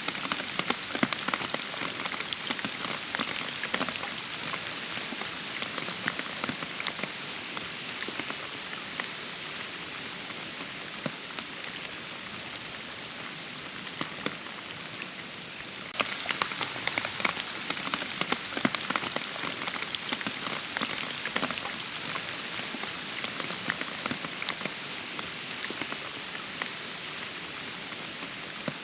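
Steady rainfall with many separate drops striking close by over an even hiss. The drop hits are densest at the start, thin out, then pick up abruptly again a little past halfway.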